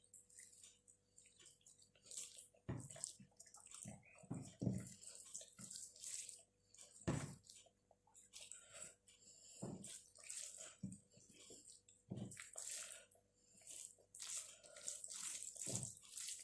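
Close-miked chewing and mouth sounds of a person eating rice with palak paneer and mashed potato, made up of irregular short clicks and smacks with a few low thuds.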